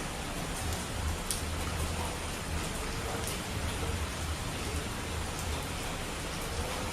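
Steady rain falling on a surface, an even hiss with a low rumble underneath and a few sharper drop ticks.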